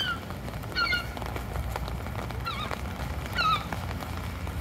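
A bird calling four times, in short, wavering, high-pitched calls, over a low steady rumble.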